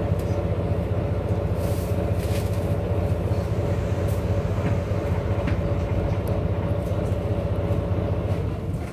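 A train going past at a level crossing, a steady low rumble heard from inside a waiting bus, with a steady hum over it. The sound fades just before the end.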